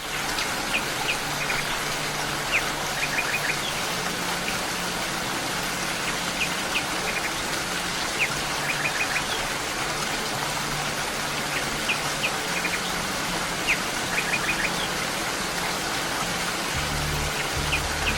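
Steady rain, with short high chirps recurring in the same pattern every five or six seconds, over soft, low, sustained music; deeper bass notes come in near the end.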